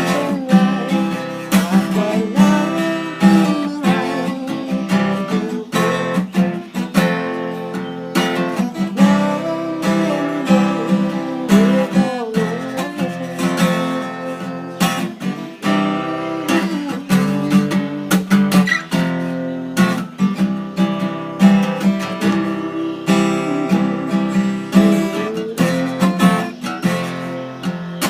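Acoustic guitar music, strummed, with steady repeated strokes.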